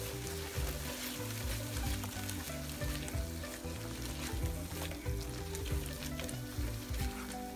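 Onion-and-spice masala with freshly added plain yogurt sizzling in a nonstick wok as it is fried down (kosha), with a silicone spatula stirring and scraping through it. The sizzle is a steady hiss broken by small pops and scrapes.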